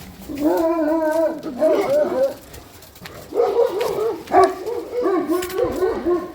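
Dogs barking and howling in alarm at wild boars: a long held howl about half a second in, then a run of shorter barks and yelps from about three seconds in.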